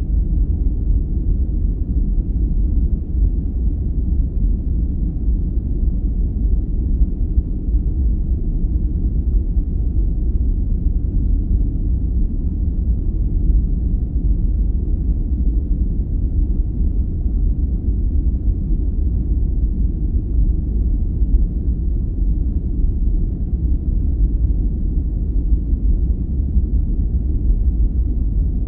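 Steady, unchanging deep noise of a sleep-aid noise track: a low rumble without any high hiss.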